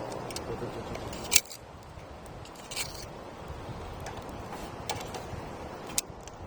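Campfire crackling, with a few sharp pops of burning wood over a steady rushing noise. The loudest pop comes about a second and a half in.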